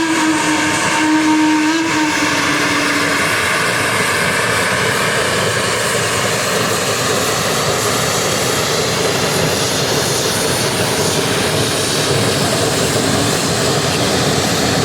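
Geared steam locomotive's whistle, sagging slightly in pitch and cutting off about three seconds in, followed by a loud, steady rush of the locomotive's steam exhaust as it works past.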